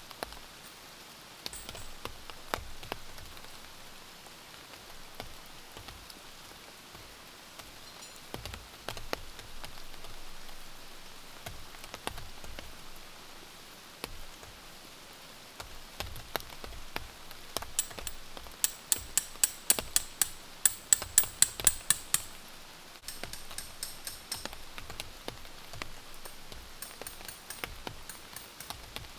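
Rain falling, with scattered drops ticking sharply on a nearby surface. Past the middle comes a quick run of louder, closely spaced sharp ticks lasting a few seconds.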